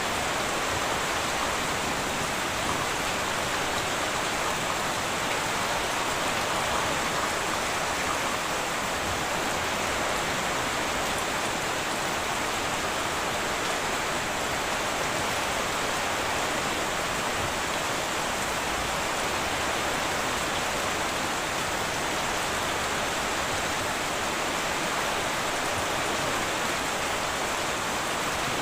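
Heavy rain falling on a tin roof: a steady, even rain hiss with no thunderclap and no change in level.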